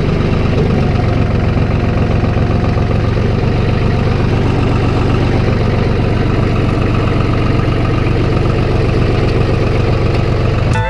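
Vehicle engine running steadily at a constant speed, loud and even.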